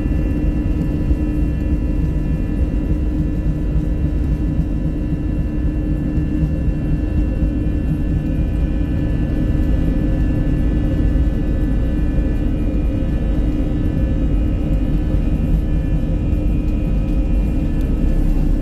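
Airbus A321 cabin noise: the jet engines run steadily with a low rumble and a held hum made of several tones, heard from inside the cabin.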